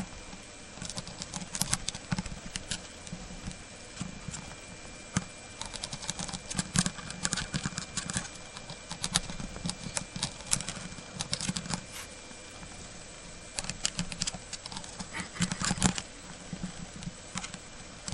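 Cockatiel's beak pecking and crunching dry soba noodles into crumbs: quick irregular clicks and taps, pausing briefly twice.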